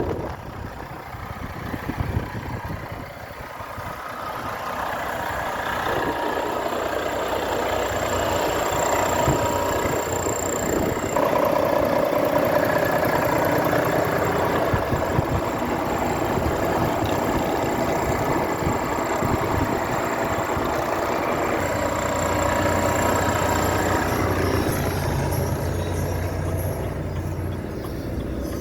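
Diesel engine of a Renault T 440 truck running, quieter at first and then louder within the first few seconds, its note shifting several times.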